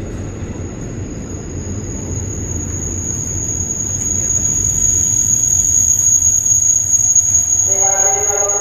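A train rumbles nearby and grows steadily louder, with a steady high-pitched squeal over it. Near the end a steady pitched tone with overtones begins.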